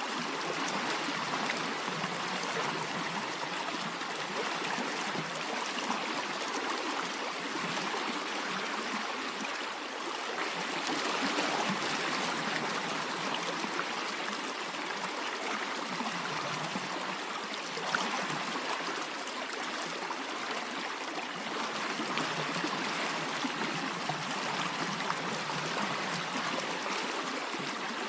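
Water of a stream running and trickling steadily, with one brief click about two-thirds of the way through.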